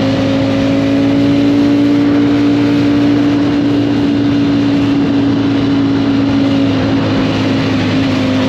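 Motorcycle engine running at a steady, nearly constant pitch while riding, under a broad rushing noise.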